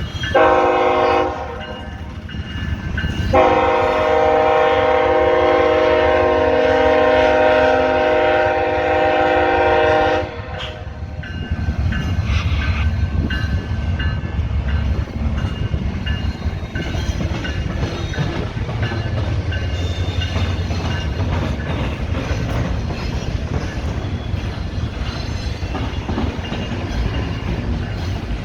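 Freight locomotive horn sounding a short blast, then a long one held for about seven seconds, several notes together; then the steady low rumble and rolling clatter of a CSX double-stack container train passing.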